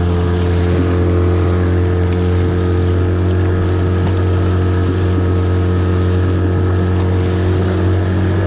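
Mercury 9.9 hp outboard motor running steadily at high throttle, pushing an inflatable skiff at speed, with wind and water noise over it.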